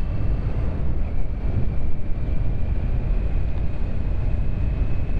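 Wind rushing over a helmet microphone on a moving motorcycle with the visor open: a steady loud low rumble of wind and riding noise, with a faint steady high whine coming in about a second in.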